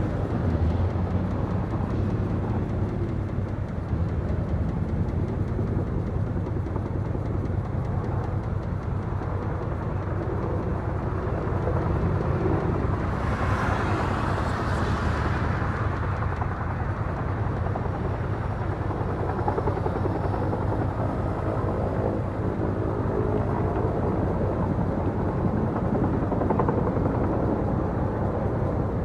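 Helicopter rotors beating steadily, with a brief rush of hiss near the middle.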